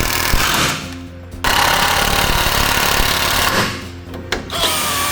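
Power tool running in loud bursts of rough, noisy sound, cutting out briefly twice.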